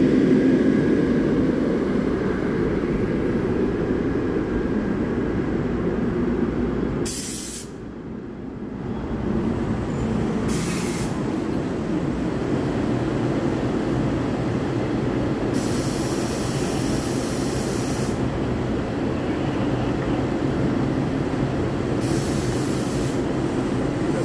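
NJ Transit Comet IV commuter coaches rolling slowly along the platform and coming to a stop, a steady rumble of wheels on rail. Four sharp bursts of air hiss from the brakes cut in over it, the longest about two seconds, and the rumble drops away briefly about eight seconds in.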